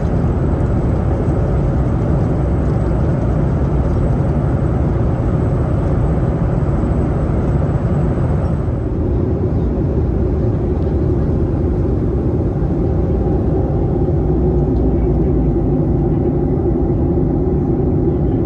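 Boeing 737-800 cabin noise in flight: the steady rush of airflow and the drone of its CFM56 engines. About halfway through the higher hiss drops away and a lower hum comes forward.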